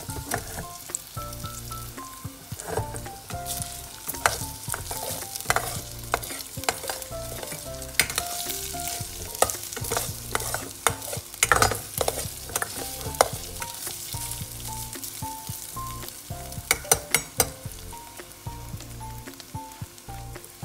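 Sausage slices and garlic frying in oil in a stainless steel pot with a quiet sizzle, while a metal utensil scrapes and knocks against the pot many times as they are stirred. A light melodic tune with a bass line plays underneath.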